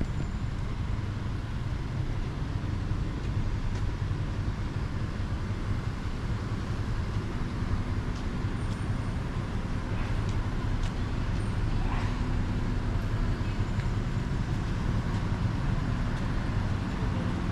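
Street traffic noise: motor vehicles running and passing, a steady low rumble.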